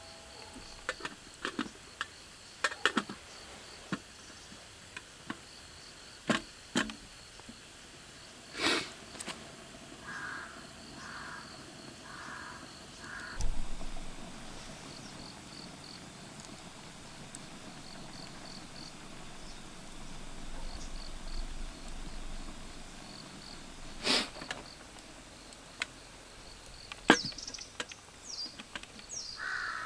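Insects chirping steadily in a fast pulsing trill, with a crow cawing four times in a row about ten seconds in and again at the very end. Scattered sharp clicks and knocks come throughout, a few louder ones standing out.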